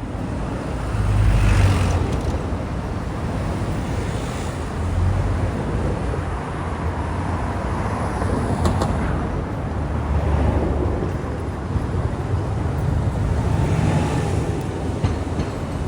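City street traffic: vehicles passing in a steady low rumble that swells several times, with a brief click about nine seconds in.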